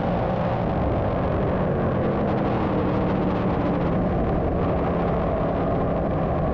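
A field of 358 small-block dirt modifieds racing around the track, many engines running together in a steady, unbroken drone.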